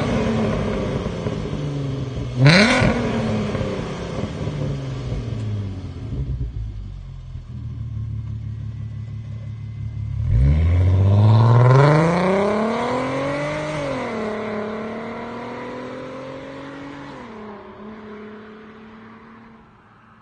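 VW Golf 4 R32's 3.2 VR6 engine through a loud exhaust with the centre resonator removed and the exhaust valve open: a sharp rev blip about two seconds in, settling back to idle, then about ten seconds in a long climbing rev whose pitch drops suddenly twice, like gearshifts, as the sound fades away.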